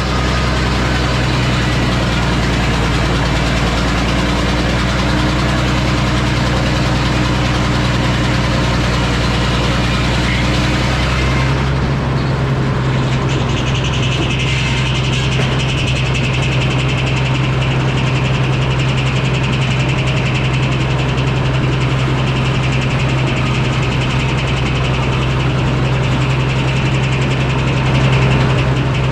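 The engine driving an antique Frick sawmill, running steadily. About twelve seconds in its note shifts, and soon after a higher, hissing sound joins it.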